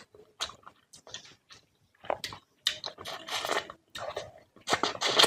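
Close-up eating sounds of someone chewing fish curry with rice: short, irregular mouth clicks and bursts with brief pauses between them.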